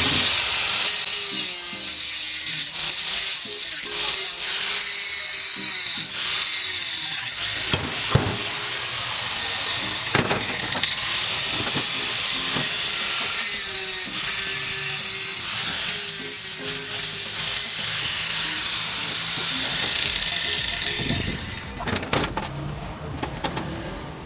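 A power tool working metal: a steady, harsh noise that drops away near the end, with music playing underneath.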